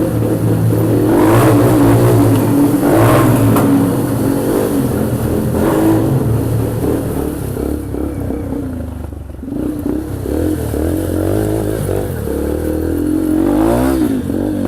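Yamaha TT-R125LE dirt bike's single-cylinder four-stroke engine running under the rider, its pitch rising and falling with the throttle, with a few short rushes of noise in the first half.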